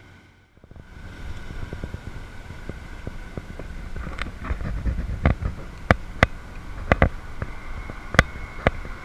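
A bicycle on the move on a paved road: steady tyre and road rumble with dense light rattling, and several sharp clicks or knocks from the bike in the second half.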